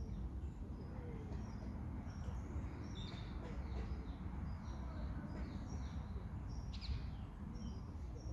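Small birds chirping in short, high, scattered calls over a steady low rumble.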